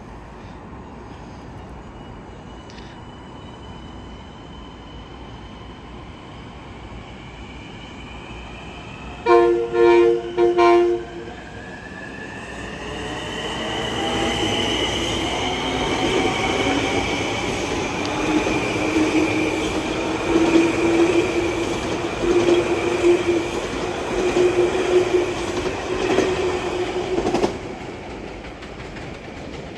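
Long Island Rail Road train sounding three short horn blasts, then running through the station with steady rail noise and high wheel squeal for about fifteen seconds. The noise stops abruptly near the end.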